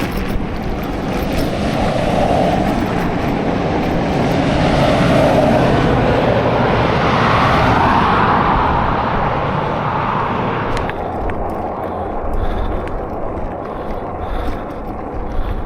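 Wind rushing over the microphone with tyre and drivetrain noise from a fat bike riding over desert dirt roads. The noise swells through the middle and drops off suddenly about eleven seconds in.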